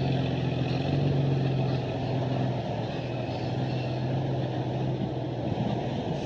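Diesel engine of heavy earth-moving machinery running steadily, its hum strongest about a second in and easing slightly after.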